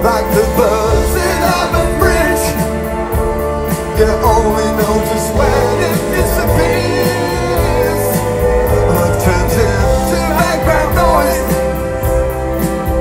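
A band playing a pop-rock song with a steady drum beat, bass and held chords, and a wavering melody line over them.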